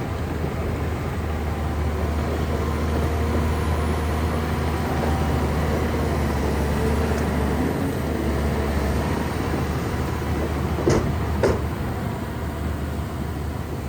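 Heavy Shantui bulldozer's diesel engine running steadily under load as it works mud and soil, with two short, sharp knocks half a second apart late on.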